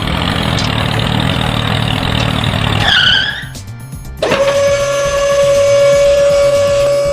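Background music interrupted by a dense mechanical run like a small engine, which ends about three seconds in with a quick downward-swooping whistle; after a short dip the music's steady held tone comes back about four seconds in.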